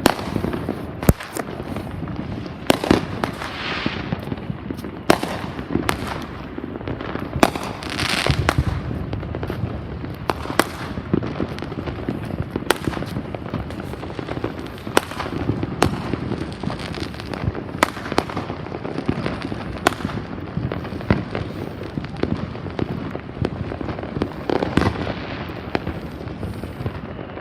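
New Year's Eve fireworks going off without pause: sharp bangs at irregular intervals, often more than one a second, over a dense, continuous crackle of many further bursts.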